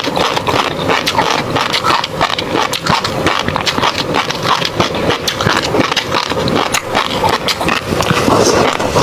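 Close-miked chewing of tobiko (flying-fish roe): a dense, continuous run of small wet crackles and pops.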